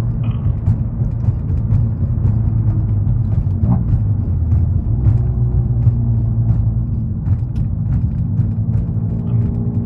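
Volkswagen Mk7 GTI's turbocharged 2.0-litre four-cylinder running steadily through an aftermarket downpipe and muffler-delete exhaust, giving a loud, constant low exhaust drone. This is the setup the owner says was really loud and sounded really bad without a muffler.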